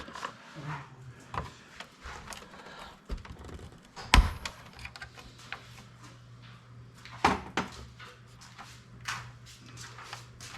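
Clicks, clatter and knocks of tools and computer parts being handled on a workbench, with a sharp knock about four seconds in and another about seven seconds in. A low steady hum runs underneath from about five seconds in until near the end.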